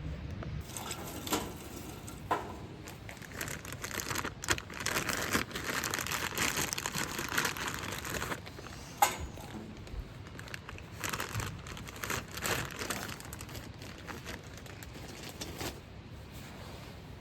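Crinkling and rustling of something being handled, densest a few seconds in, with scattered sharp clicks.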